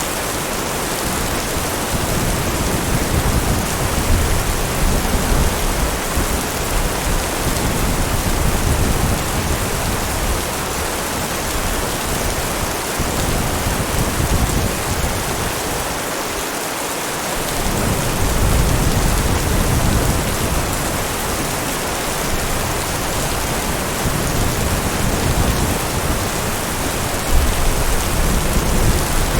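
Heavy rain falling steadily, with low, uneven thunder rumbling underneath that fades briefly about halfway through and then returns.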